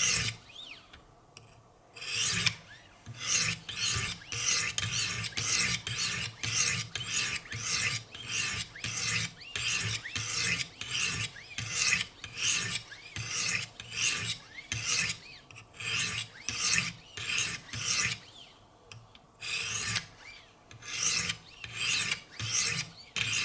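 200-grit Wicked Edge sharpening stones scraping along the edge of an S90V steel knife blade in repeated strokes, about two a second, with short pauses near the start and about three quarters of the way through. The strokes use only the stones' weight, finishing the 200-grit stage.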